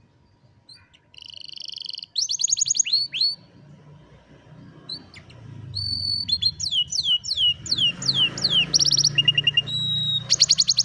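Domestic canary singing: buzzy rolls and rapid trills mixed with runs of downward-sweeping whistles, starting about a second in and building to a fast trill near the end.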